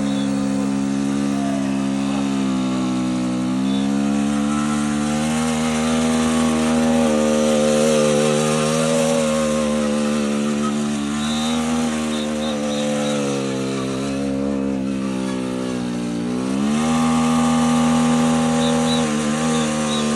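An engine running steadily. Its pitch dips and rises back a few times, with a larger drop and climb about three-quarters of the way through.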